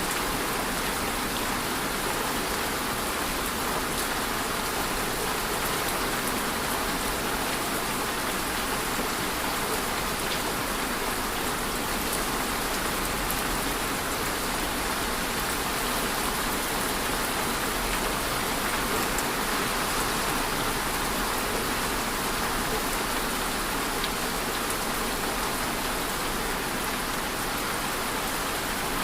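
Steady rain falling: an even hiss with faint scattered ticks of single drops.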